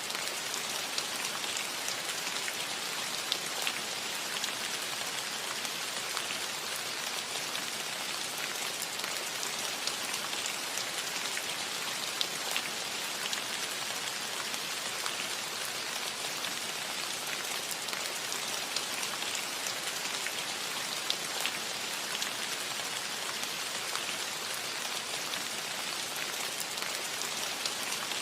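Steady rain falling on a roof: an even hiss with many sharp, separate drop ticks scattered through it.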